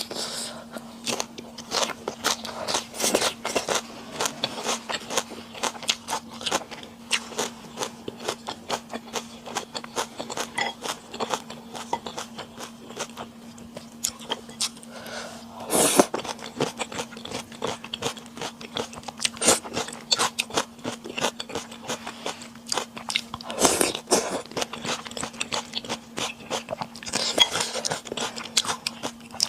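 Close-miked eating sounds: continuous chewing with frequent crunchy bites and wet mouth clicks, and a couple of louder sharp knocks partway through. A steady low hum runs underneath.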